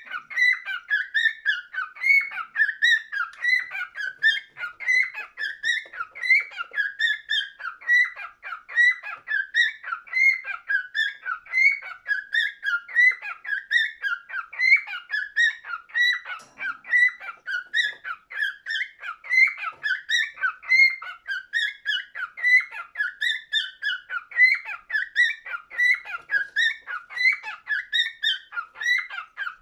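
Cockatiel chirping and whistling: a continuous run of quick, high, repeated notes that rise and fall in pitch without a pause.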